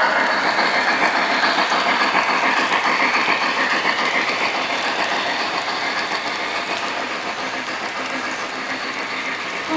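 O-gauge model train running on the track, a steady rolling clatter of wheels on rail that grows slightly fainter as it goes.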